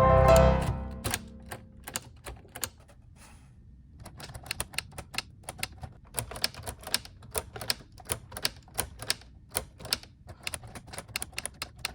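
Background music ends within the first second. Then the keys of a LEGO 21327 Typewriter model are pressed one after another, clicking: a few scattered clicks at first, then an irregular run of about three to four clicks a second from about four seconds in.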